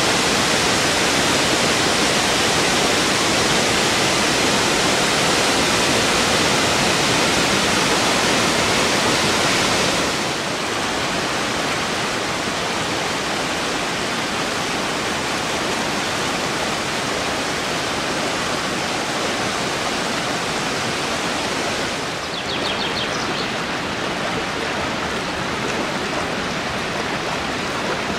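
Dzhuryn waterfall: water falling and rushing in a dense, steady roar of noise, which steps down a little in loudness about ten seconds in.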